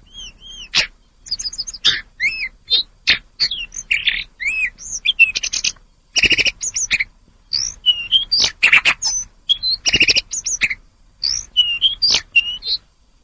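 A tledekan songbird singing a long, varied song: quick chirps, sweeping whistled notes and fast rattling series, delivered in bursts with brief pauses and busiest about halfway through.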